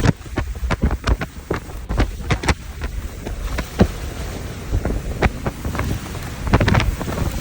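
Severe thunderstorm winds gusting, buffeting the microphone with a low rumble, with many irregular sharp taps mixed in.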